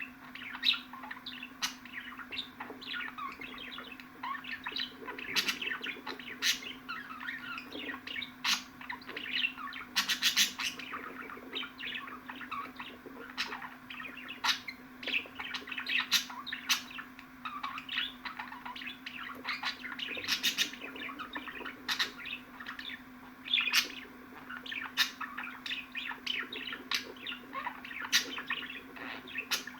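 Budgerigar warbling and chattering: a busy, unbroken stream of chirps with sharp, loud clicks and squawks here and there.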